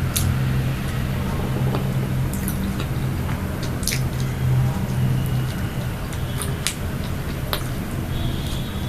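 Close-miked mouth sounds of someone chewing soft pastry or snack cake, with wet squishes and a few sharp clicks and crackles, over a steady low hum.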